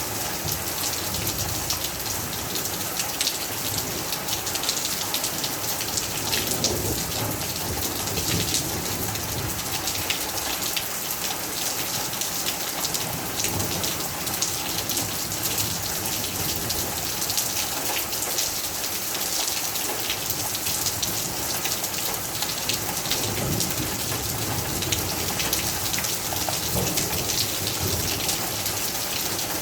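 Steady rain falling, with the hits of many separate drops on a surface heard as a dense crackle.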